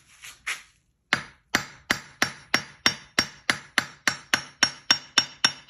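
JHM anvil tapped with a small hammer: a few light taps, a brief pause, then a steady run of strikes about three a second, each leaving a bright, high ring.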